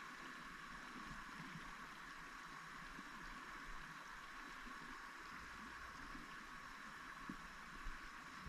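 Faint, steady rush of flowing water, with a couple of small knocks near the end.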